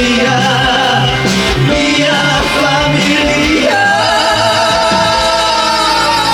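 Musical-theatre song sung by male voices over a live band, ending on one long held note with vibrato from a little past halfway, which falls away near the end.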